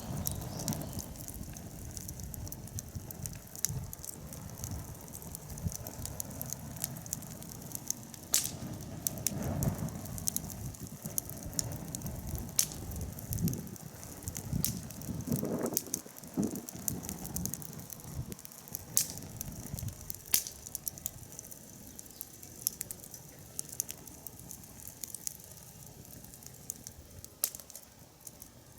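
Wood fire burning, crackling with irregular sharp snaps and pops over a low rush of flame.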